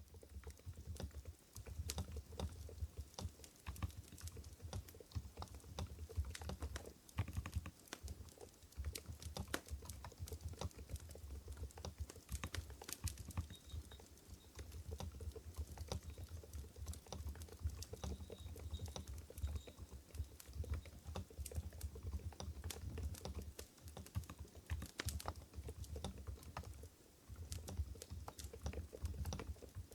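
Continuous typing on an Mstone Groove GV10 keyboard with silent coral switches (45 g): a fast, dense run of soft keystroke clicks, with a couple of brief pauses.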